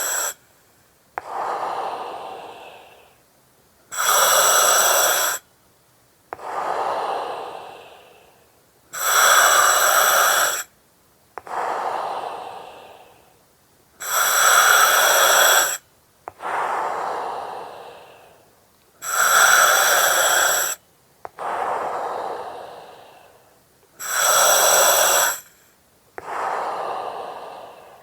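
Slow, regular breathing through an oxygen mask and its regulator, one breath about every five seconds. Each breath is a sharp-edged hiss with a steady whistling tone, about a second and a half long, followed by a longer breath that fades away.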